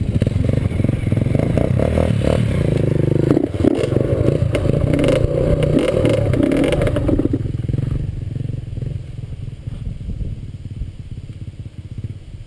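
Dirt bike engine running loudly for about seven seconds, then dropping off and fading.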